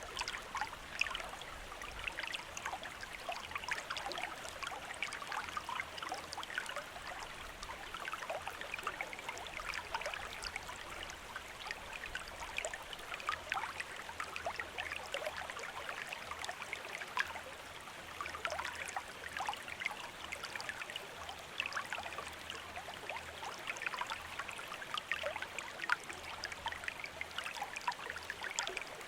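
Small stream running steadily over stones, with a constant babble and many small splashes and gurgles.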